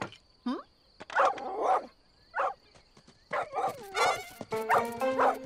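A cartoon dog barking several times in short, pitched barks, with background music coming in about three seconds in.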